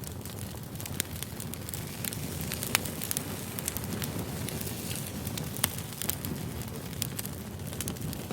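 Wood fire burning: a steady low rumble of flames with frequent sharp crackles and pops from the firewood, the loudest pop a little under three seconds in.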